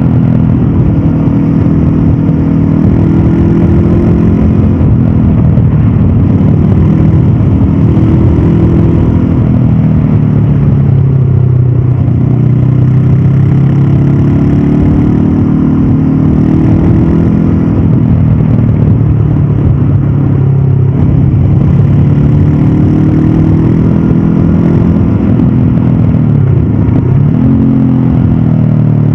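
Stock 2022 Honda CB500F's parallel-twin engine and exhaust under way, the revs rising and falling with the throttle and with several quick drops in pitch as gears are changed or the throttle is rolled off.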